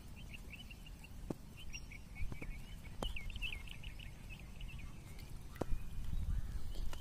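A small bird chirping in a rapid series of short, high notes for the first few seconds, over a steady low rumble of flowing river water. A few soft clicks and rustles from hands working bait in a plastic bag.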